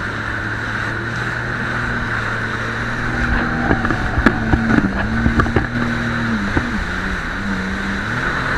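Jet ski engine running steadily under way, with wind and water rushing past. A cluster of sharp thumps comes in the middle, and the engine note dips slightly and comes back near the end.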